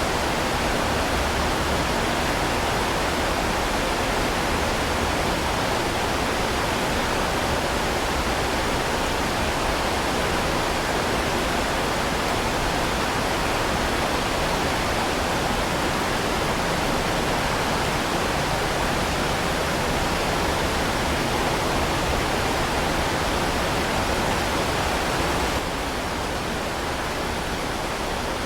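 Heavy rain falling steadily as a dense, even hiss, stepping slightly quieter near the end.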